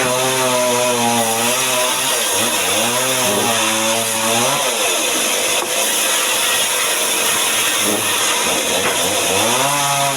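Chainsaw engine running under load while cutting mahogany, with a steady hiss of cutting. The engine pitch sags and recovers several times, dipping around two and a half seconds in, again near four and a half seconds, and once more near the end, as the chain bites into the wood.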